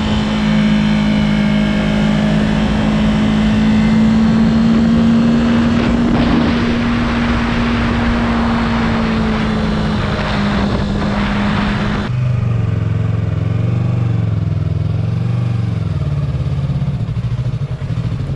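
Motorcycle engine running at a steady cruising speed, with wind rushing over the microphone. About twelve seconds in, the engine note drops sharply to a lower pitch as the bike slows.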